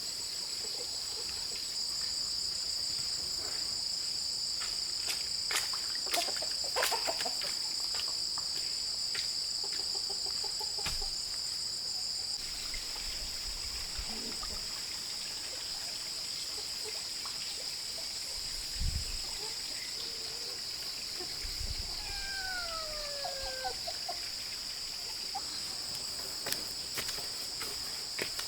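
Steady, high-pitched drone of insects, with scattered light knocks and clicks and a couple of dull low thumps. About three-quarters through, a short falling call sounds.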